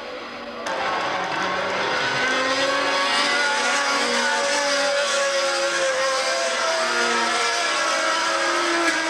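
1970s Formula One racing engines running at high revs, their pitch drifting slowly up and down. There is an abrupt jump in the sound about a second in.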